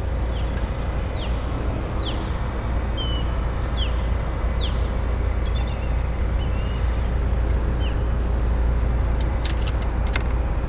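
A steady low rumble, with a bird giving short downward-sliding chirps over and over for most of the first seven seconds. A few sharp clicks come near the end.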